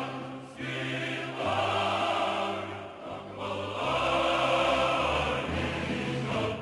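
Choral music: a choir singing long, held phrases over a steady bass accompaniment, with short breaths between phrases about three seconds in and near the end.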